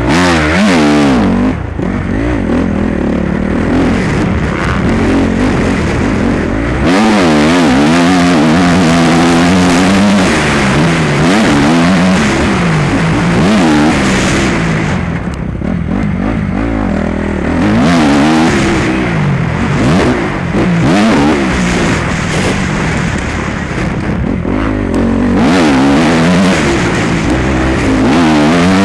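Motocross bike engine revving hard, its pitch climbing and dropping again and again as it accelerates, shifts and backs off through the track's sections.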